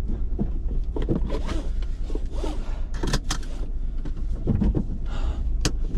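Clicks, rustling and a few sharp knocks from handling inside a car, over a steady low rumble.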